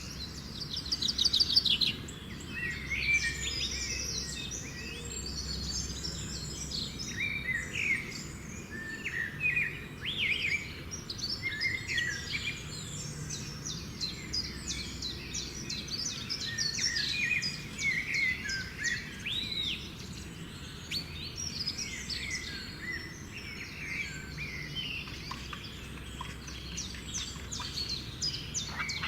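Several birds singing and calling together, a dense mix of short chirps, whistles and quick trills.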